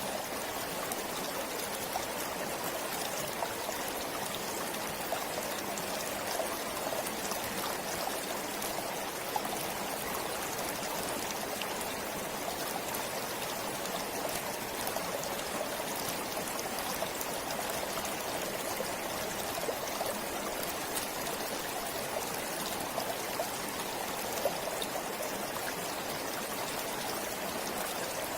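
Forest stream flowing steadily, a continuous babble of running water with small splashes.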